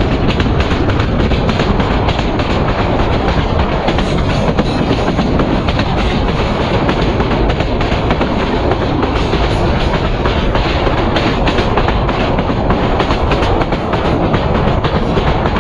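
PT INKA-built passenger coaches of an express train running along the track, a steady rumble with continual clattering of the wheels over the rails, heard close up from an open coach window.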